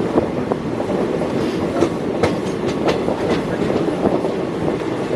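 Passenger train running along the track: a steady rumble and rattle, with a run of sharp wheel clicks over rail joints between about two and three and a half seconds in.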